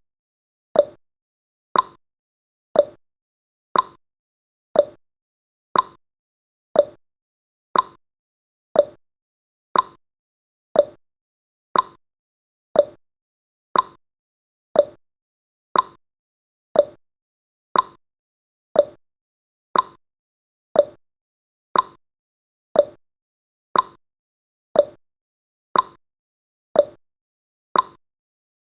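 Countdown timer sound effect: a short, sharp tick once every second, evenly and steadily, marking off the seconds.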